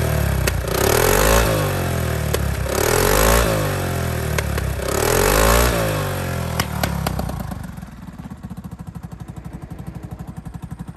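2003 Honda Forza scooter's water-cooled four-stroke single-cylinder engine revved up and let back down about three times, then settling to a steady idle about eight seconds in. The seller describes the engine as running well.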